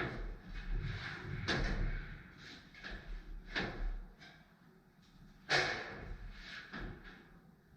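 Irregular knocks and thuds of carpentry work on wood framing, about half a dozen sharp strikes with the loudest about five and a half seconds in.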